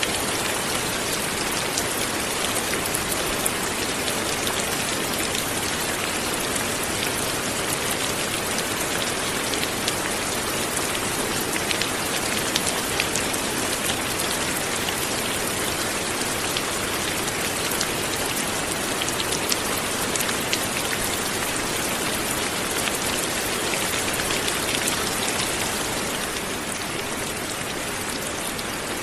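Light rain falling steadily, an even hiss with scattered individual drops pattering. It eases slightly in the last few seconds.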